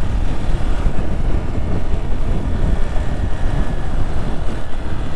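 Hero XPulse 200 single-cylinder motorcycle riding along, its engine running steadily under loud wind rumble on the microphone.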